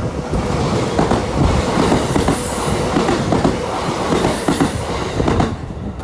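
Senseki Line electric commuter train running past, its wheels clattering rapidly over the rail joints; the noise falls away about five and a half seconds in.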